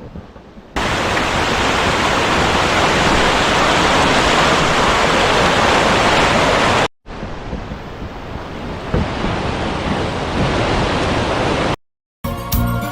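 Mountain stream water rushing, a loud steady rush that cuts off abruptly twice; guitar music begins near the end.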